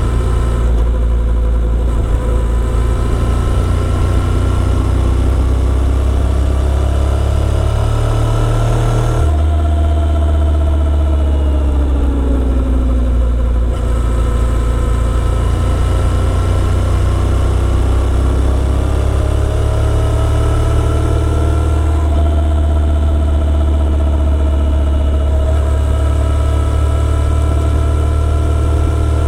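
Motorcycle engine running while riding, its note slowly rising and falling, with abrupt changes in tone a few times.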